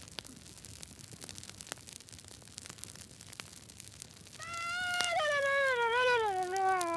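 A cat's long, drawn-out yowl begins about four and a half seconds in, its pitch wavering and sliding down for about three seconds. Faint scattered crackling clicks come before it.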